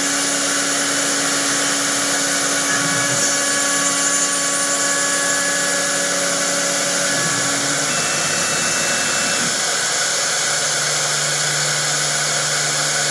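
CNC wood lathe running: a steady machine hiss with a held whine that drops to a lower pitch about two-thirds of the way through.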